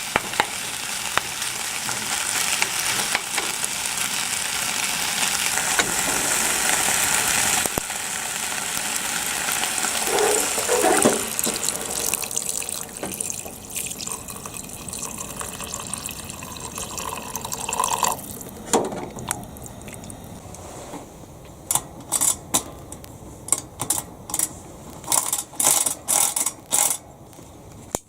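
Water running steadily, like a tap filling a container, for most of the clip before it stops; after that come a series of sharp clicks and knocks.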